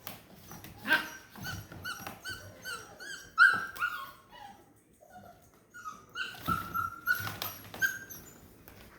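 Portuguese Water Dog puppies whining and yipping in many short, high calls as they play, the loudest about three and a half seconds in, with a few knocks among them.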